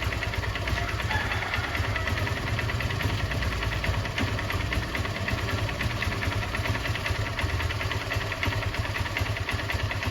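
Honda Unicorn's single-cylinder four-stroke motorcycle engine idling steadily with an even, rhythmic beat, held at idle without revving while an engine-flush additive circulates through the old oil.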